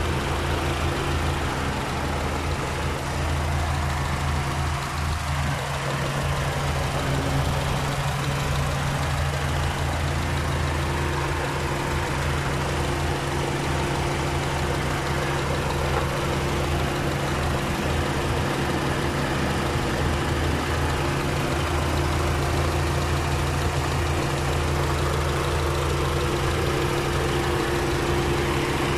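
Mitsubishi 4G92 fuel-injected inline-four engine idling steadily, heard up close with the hood open, running on freshly changed oil.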